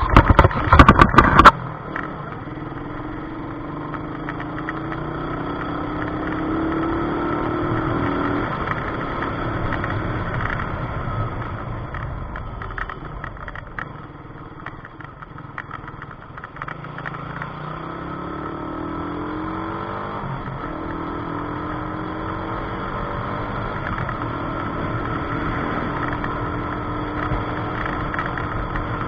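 Car engine and road noise from a moving car, the engine pitch rising as it accelerates and dropping back several times, as through gear changes. A burst of loud knocks in the first second or so.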